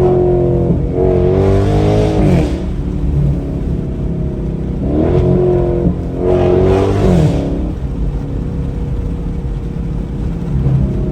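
V8 engine of an SRT muscle car accelerating hard twice, the revs climbing, dipping at a gear change, climbing again and then easing off, with steady running between the two pulls.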